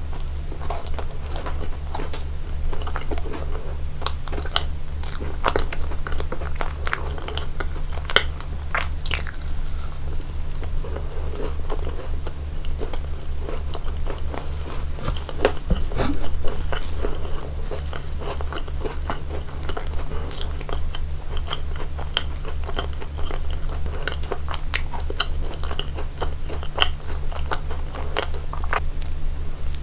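Close-miked eating of cake: steady chewing and biting with frequent small, crisp crackles, over a steady low hum.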